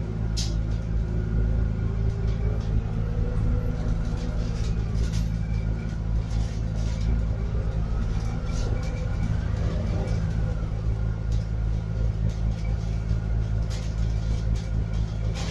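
Scania N280UD biogas bus's gas engine running with a steady low drone, with faint whines that rise and fall in pitch.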